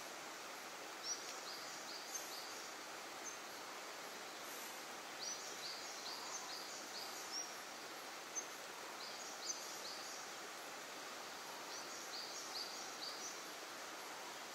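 Outdoor ambience: a steady background hiss, with a bird singing clusters of short, high, falling chirps every few seconds.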